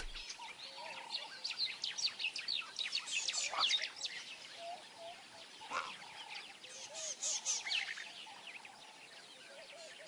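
Wild birds chirping in the bush: many short, quick, high chirps that come thickest about three seconds in and again near eight seconds, with a few lower warbled notes between them.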